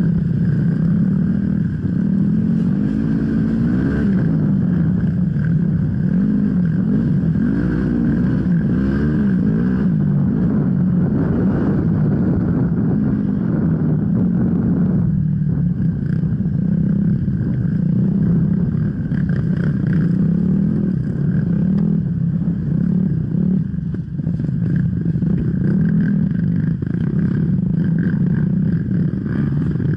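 Enduro dirt bike engine running under load, its pitch rising and falling continually as the throttle opens and closes.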